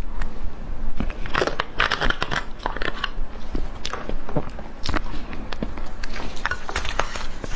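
Close-miked eating: biting and chewing, with many sharp wet mouth clicks and a denser patch of chewing about one and a half to two and a half seconds in.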